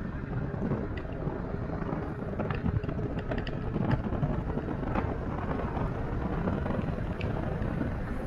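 Wind rushing over the microphone and road noise while riding an e-bike, with a few faint clicks and rattles.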